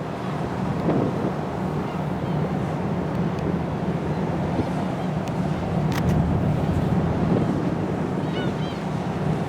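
Wind rushing over the microphone and water wash, over the steady low hum of a car ferry's engines as the ship comes into port. There is a single sharp click about six seconds in.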